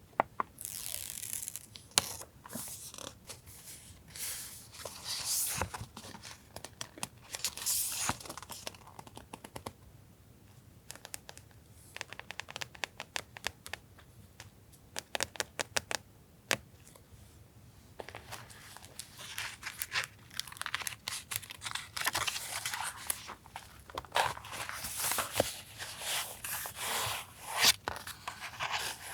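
Paper and plastic stationery packaging being handled: rustling and crinkling in uneven bursts with short tearing sounds, and a quieter stretch of small clicks and taps in the middle.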